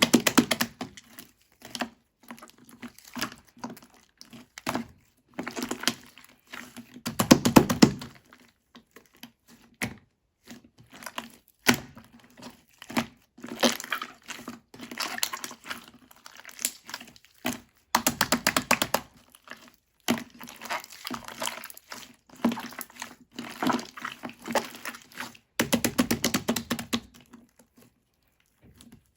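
Slime being squeezed and kneaded by hand, giving bursts of wet clicks and crackling pops with short pauses between, the longest bursts about seven seconds in and again near the end.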